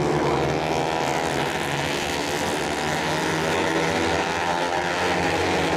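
Moto3 racing motorcycles running hard, their 250 cc single-cylinder four-stroke engines making a steady overlapping engine note of several pitches.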